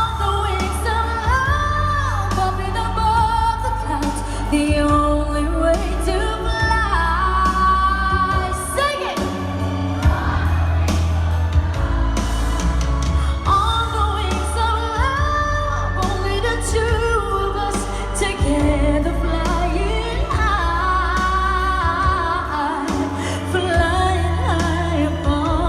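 Live amplified pop ballad: a singer's sustained, gliding vocal lines over a band backing with heavy bass.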